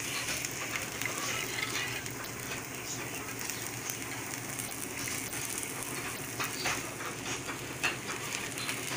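Onion dosa frying in oil on a tawa, with a steady sizzle. Near the end a spatula scrapes and clicks against the pan as the dosa is folded and lifted.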